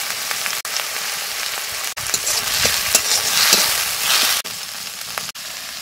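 Onion, tomato and spice masala frying in mustard oil in a steel karahi, sizzling steadily. A steel spatula stirs and scrapes the pan, loudest in the middle, and the sound eases off near the end.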